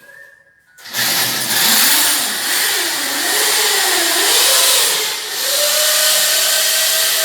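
A power tool's motor running loudly with a dense, hissing whine. It starts about a second in, its pitch sags and recovers as the load changes, then holds steady in the last seconds.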